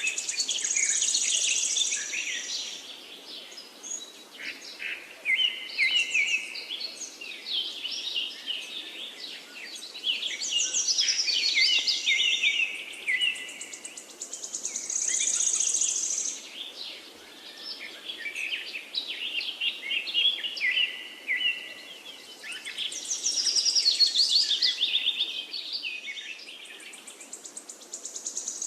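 Songbirds singing, several phrases of quick trills and chirps overlapping and repeating every few seconds, over a faint steady background hiss.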